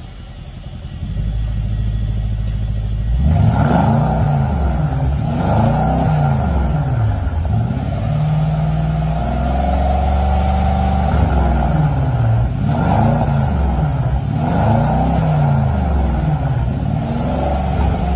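Mercedes-Benz W223 S580's twin-turbo V8 running through an aftermarket valved full exhaust. It idles steadily, then from about three seconds in is revved again and again, the pitch rising and falling with each blip.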